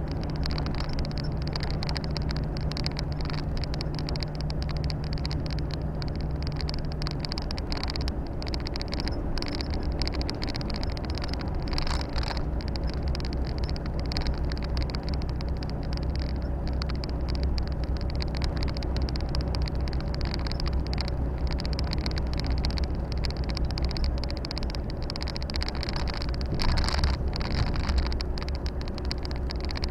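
Volvo FH 460 truck's 13-litre six-cylinder diesel running steadily at cruise, a constant low engine drone mixed with tyre and wind noise. One of the engine's low tones drops out after a few seconds, and a few brief rattles come through, the loudest near the end.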